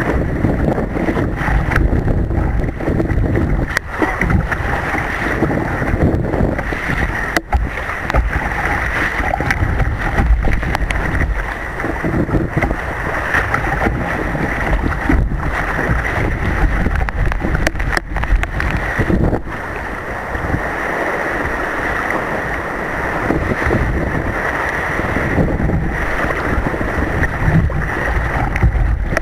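Wind buffeting the microphone over a steady rush of surf and water around a kayak, with heavy low rumble throughout and a few brief dropouts.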